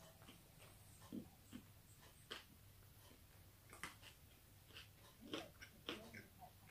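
Faint chewing on a mouthful of chicken fajita wrap: a scatter of soft mouth clicks and smacks, more frequent in the second half.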